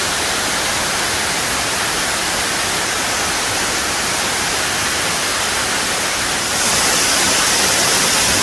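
Steady rushing of a waterfall close by, a loud even hiss that gets louder and brighter about six and a half seconds in.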